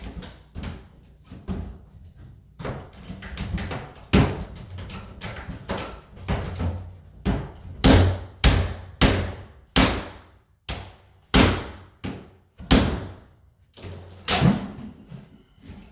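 A series of hard blows battering a cabinet that will not give way, about one or two strikes a second, each with a short ringing tail. The heaviest strikes start about four seconds in.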